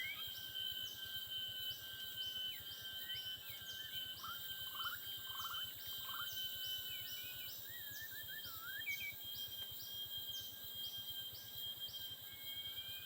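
White-rumped shama giving short, varied whistled song phrases, set against a high chirp that repeats about twice a second and a steady insect drone.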